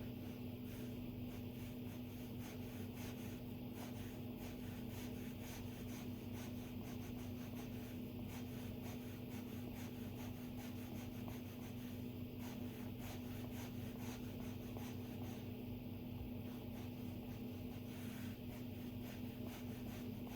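Stylus tapping and stroking on an iPad's glass screen: light, irregular ticks and soft scratches, over a steady low hum.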